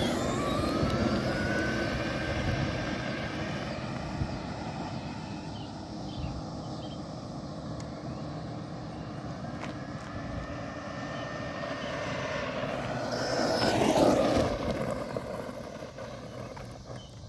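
Electric RC monster truck's motor whining as it accelerates and runs, the pitch climbing and holding, over a steady rush of tyre and road noise. It comes close and passes about fourteen seconds in, the whine sweeping down in pitch as it goes by, then fades.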